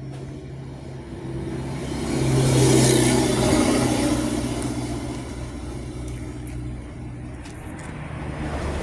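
A motor vehicle passing by: its engine and road noise swell to a peak about three seconds in, then fade slowly away.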